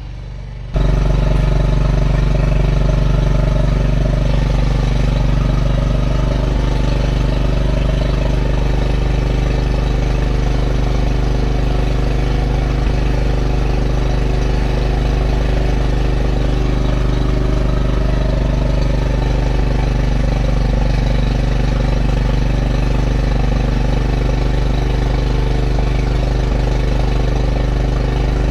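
A large engine idling steadily: a heavy, even low hum with a fixed pitch that cuts in abruptly under a second in.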